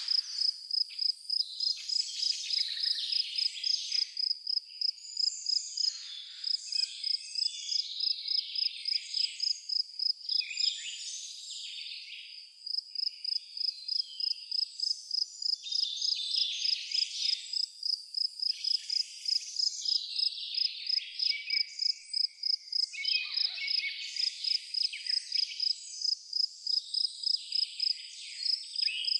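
A cricket chirping in a steady, even rhythm of several chirps a second, with a short pause just before the middle, while songbirds sing varied phrases over it.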